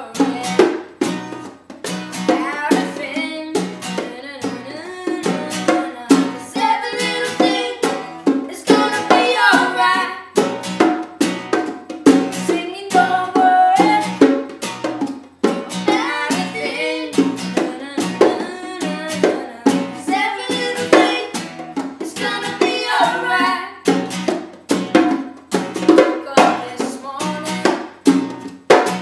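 Live singing over a strummed acoustic string instrument, with an even, steady strumming rhythm.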